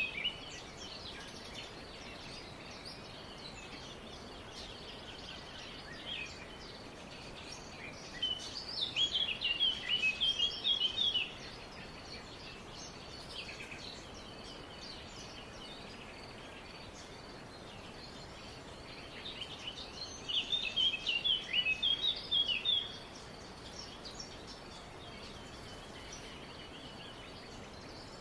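Small songbirds singing: two phrases of rapid high chirps, each about three seconds long, roughly eight and twenty seconds in, with a few scattered faint calls over a steady background hiss.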